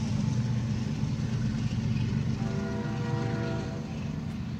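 Low, steady rumble of a diesel freight train, with a distant locomotive horn sounding a chord of several steady tones from about halfway through.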